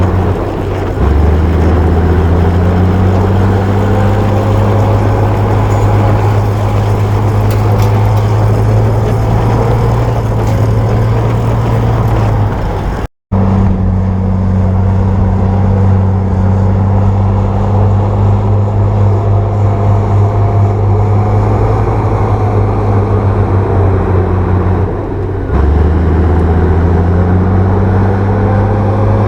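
Bulldozer's diesel engine running hard with a steady low drone, the note stepping up about a second in, easing briefly near the end and picking up again. The sound cuts out for an instant about halfway through.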